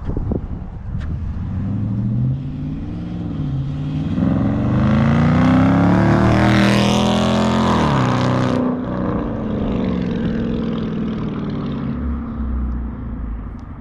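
2019 Dodge Charger R/T's 5.7-litre HEMI V8 with a mid-muffler delete, accelerating as it drives past. The exhaust note climbs in pitch and grows loudest around the middle. About two thirds of the way through it drops off sharply, then fades away.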